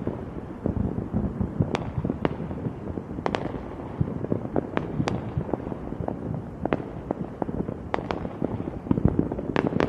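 Fireworks going off: an irregular run of sharp cracks and bangs, several a second, over a continuous low rumble of further blasts.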